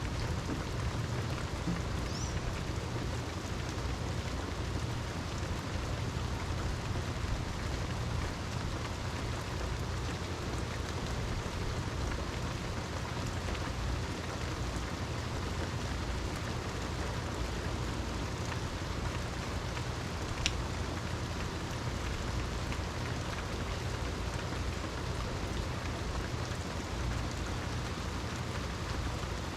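Steady rain falling, with a constant low rumble beneath it and one sharp tick about two-thirds of the way through.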